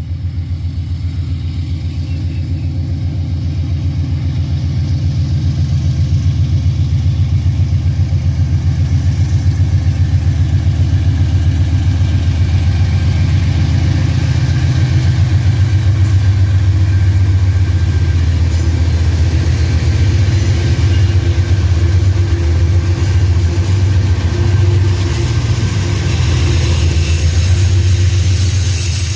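GE Dash 9 diesel-electric locomotives running, a loud, steady, low engine drone with a fast, even pulse.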